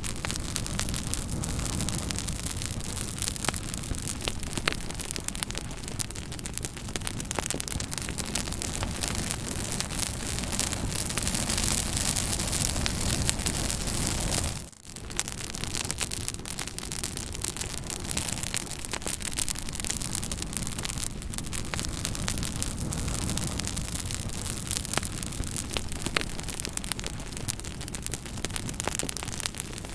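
Fire crackling: a steady hiss with frequent sharp pops and snaps scattered throughout. The sound drops out briefly about halfway through.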